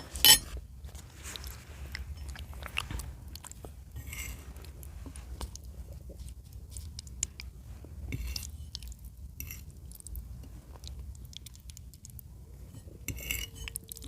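Close-miked chewing and biting of chicken in cream sauce: many small wet clicks and smacks, with a sharp loud click just after the start.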